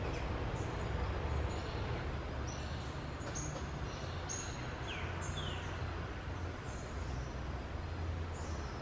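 Small birds giving short, high chirps and calls, including two quick falling whistles about five seconds in, over a steady low rumble.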